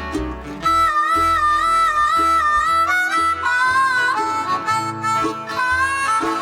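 Harmonica solo with a rapid trill between two notes, then a line moving up and down, over acoustic guitar and a bass line in a live bluegrass band.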